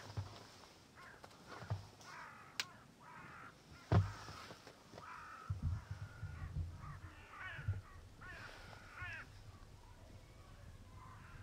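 Birds calling outdoors, a series of short calls repeated in runs, with a sharp thump about four seconds in and low rumbling after it.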